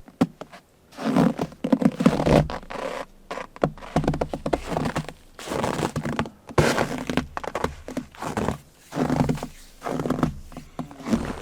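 A run of irregular thuds and scrapes, each lasting under a second, with sharp clicks in between.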